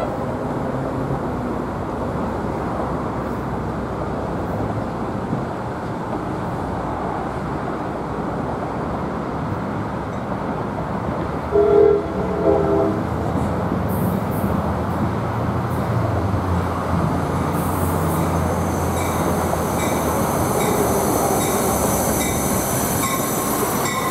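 A New Jersey Transit train led by a Comet V cab car approaches the platform, its rumble growing louder. About halfway through it gives a short horn blast. Near the end a high-pitched wheel squeal sets in as it rolls into the station.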